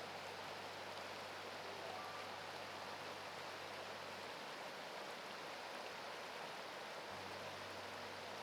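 Mountain stream rushing over rocks, a steady even hiss of running water.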